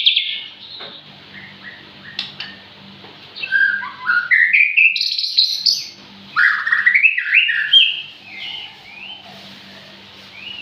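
Murai (Copsychus songbird) singing in quick, varied whistled phrases, two loud runs of rising and falling notes in the middle, with softer chirps before and after. A faint steady low hum lies under it.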